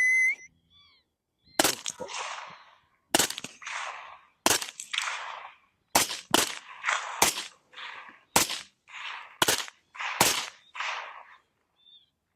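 Rifle shots, about ten of them fired in quick succession a second or so apart, each followed by a rolling echo: follow-up shots at coyotes running across the field.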